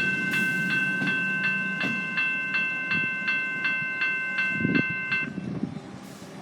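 Level-crossing electronic warning bell (General Signal E-Bell) ringing at about three strikes a second, then stopping about five seconds in, over the low rumble of a train.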